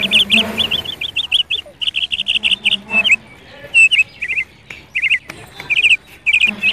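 A bird chirping: quick runs of short, high chirps, five or six at a time, repeated with brief gaps between runs.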